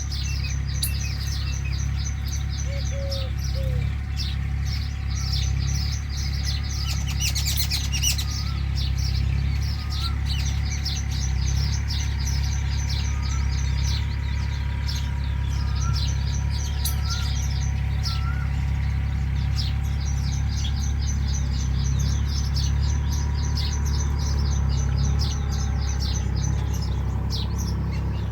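Small birds chirping in rapid, high trilling phrases that repeat every few seconds, with short rising notes in between, over a steady low rumble.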